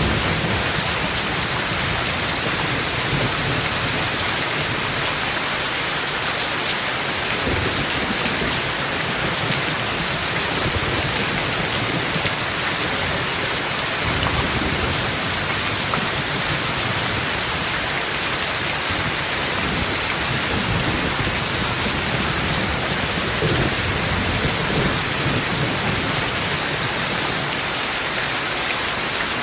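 Heavy rain falling steadily, a dense even hiss, with low rumbles of thunder underneath that swell briefly a few times.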